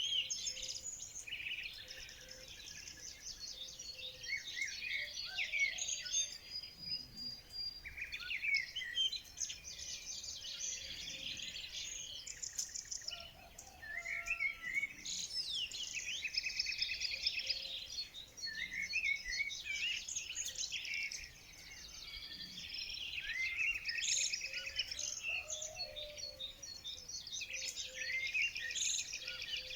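Many small songbirds singing and chirping at once, overlapping high trills and quick note series with hardly a pause.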